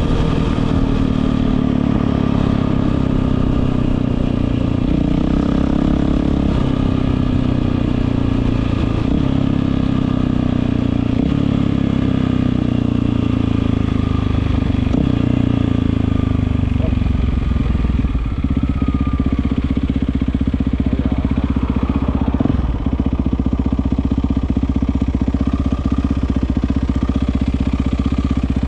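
Yamaha WR450F's single-cylinder four-stroke engine running through an Akrapovič exhaust, at a slightly varying higher speed at first. About two-thirds through, it drops to a steady idle.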